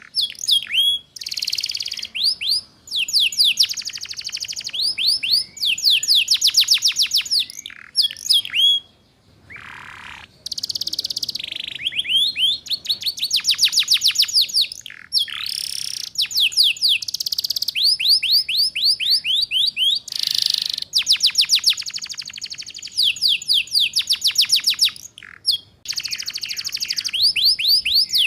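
Canary singing: fast trills of repeated down-slurred whistled notes, several per second, in phrases a second or two long with short breaks, a brief lower buzz about ten seconds in. It is the rapid trilling 'ngeriwik' song used as a master recording for young canaries to learn from.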